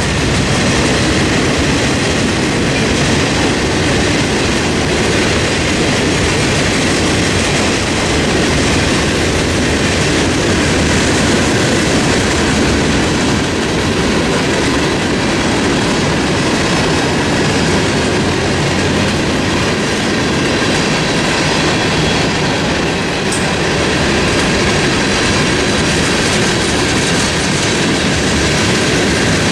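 CSX freight train cars rolling past close by: steady, loud wheel-on-rail noise with a clickety-clack over the rail joints.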